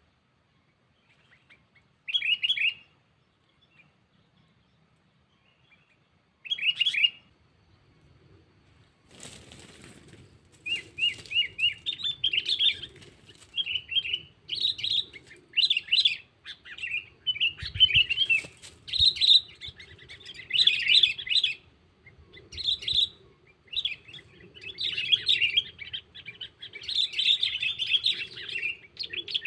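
Sooty-headed bulbul (kutilang) calling: short bursts of bubbly chattering notes a few seconds apart, then near-continuous rapid chattering from about ten seconds in. A brief rustling noise comes just before the calling picks up.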